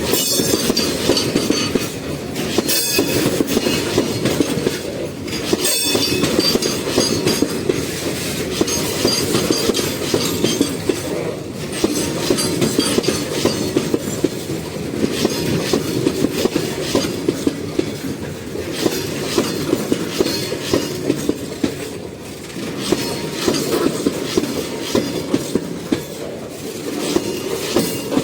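Freight train rolling past, its wagon wheels clicking steadily over the rail joints above a continuous rumble.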